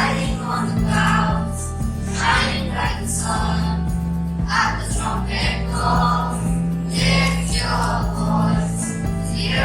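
Children's choir singing a Christian praise and worship song over instrumental accompaniment with steady sustained bass notes.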